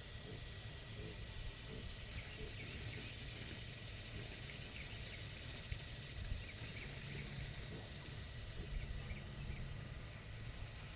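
Outdoor ambience: a steady low rumble with faint, short high chirps scattered through, and a thin steady whine.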